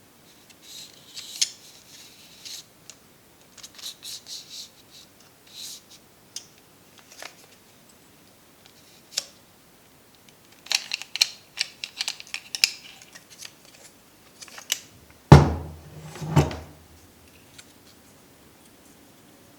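An old film camera being handled up close: scattered small mechanical clicks, ratchety rattles and scrapes from its parts, with a dense run of clicks midway. About three quarters through come two heavy knocks, the first the loudest sound here.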